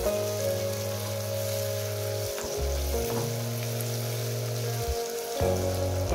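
Chopped onions, tomatoes, garlic and curry leaves sizzling in hot oil in a frying pan while a wooden spatula stirs them. Background music with sustained low notes that change every second or two plays along.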